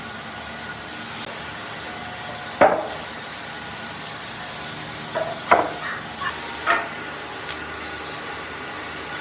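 Workshop work on wood: a steady hiss, like rubbing or spraying, that breaks off briefly now and then, with three sharp knocks along the way.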